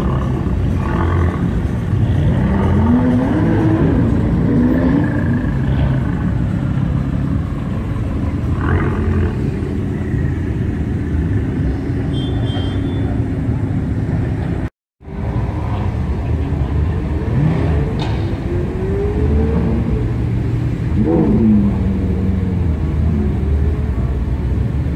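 High-performance car engines rumbling at low speed, with throttle blips whose pitch rises and falls a few seconds in and again past the middle. The sound is broken by a brief drop-out about halfway.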